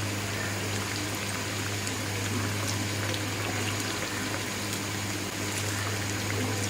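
Crumb-coated chicken chops deep-frying in oil, a steady sizzle with faint scattered crackles. A steady low hum runs underneath.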